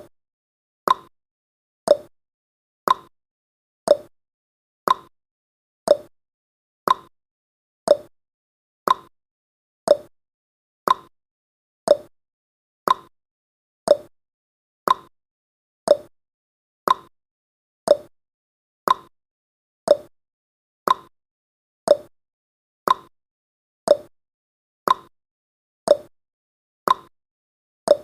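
Clock-tick sound effect of a countdown timer: one short, sharp tick every second, evenly spaced.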